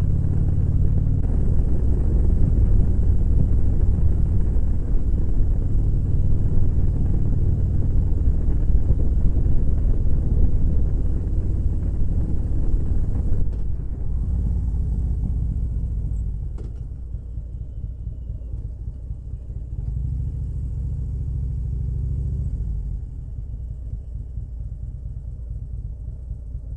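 Motorcycle engine running under way, with a deep, low sound that shifts in steps. About halfway through it drops off and gets quieter as the bike slows down.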